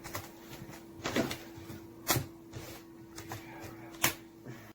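Rubber bands being stretched and snapped onto a small watermelon: a few sharp snaps, the loudest about two and four seconds in, over a faint steady hum.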